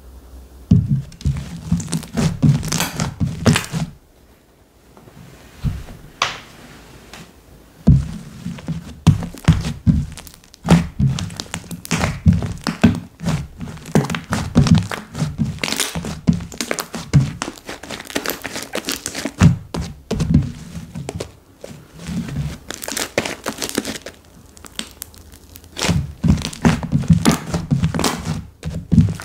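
Hands squishing, pressing and poking slime, making quick runs of sticky clicks, pops and soft thuds, with a couple of quieter pauses.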